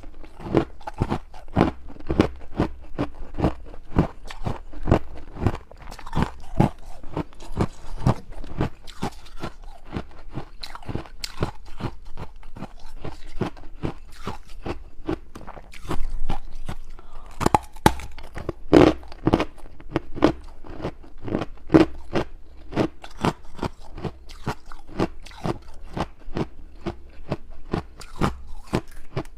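Hard ice from an ice ring being bitten and chewed: a dense run of sharp crunches, several a second, with a few louder bites a little past halfway.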